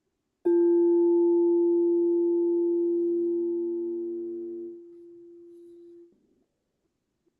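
Singing bowl struck once, ringing with several steady overtones around a strong low hum that slowly fades; the upper overtones die away first and the main tone cuts off suddenly about six seconds in.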